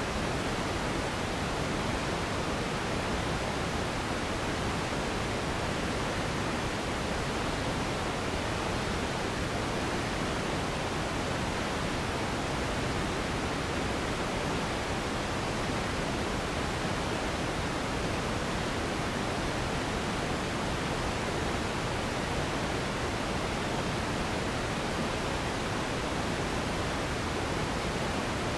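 Steady pink noise: an even, unbroken hiss with more weight in the low end than white noise, unchanging throughout.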